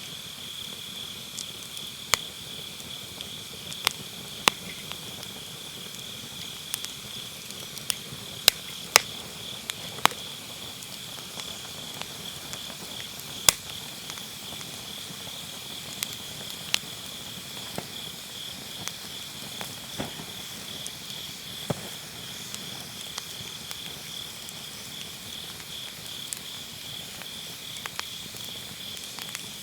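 Firewood burning in a round fire pit, crackling with sharp pops at irregular intervals, several loud ones close together about a third of the way in. Under it, grass insects keep up a steady high, pulsing trill.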